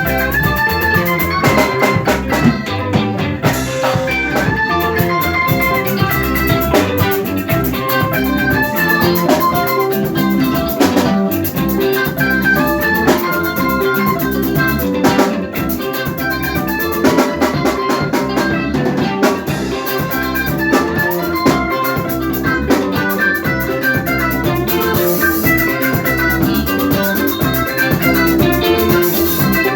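Live band playing an instrumental passage: quick melodic guitar lines over a steady drum kit beat.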